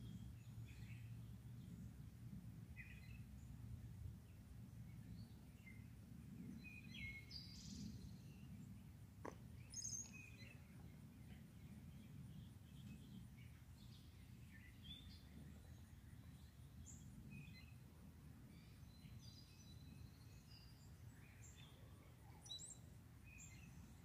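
Faint songbirds chirping here and there, short scattered calls, over a low steady outdoor rumble, with a single brief click about nine seconds in.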